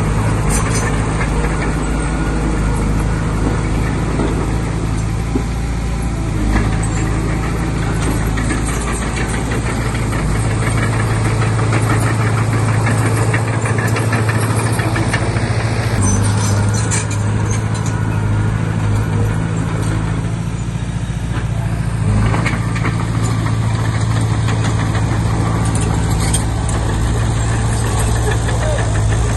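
Komatsu D20P bulldozer's diesel engine running steadily at a constant speed, with a few short knocks about halfway through.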